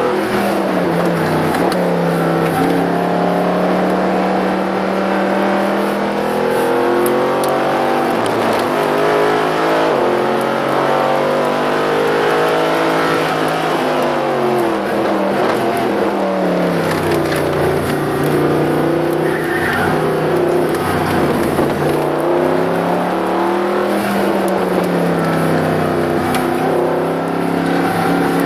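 Mercedes-Benz SLS AMG's 6.2-litre V8 with an Akrapovic exhaust, heard from inside the cabin while being driven hard. The engine note climbs and falls repeatedly as it accelerates, lifts and brakes, with a long drop in pitch about halfway through before it pulls up again.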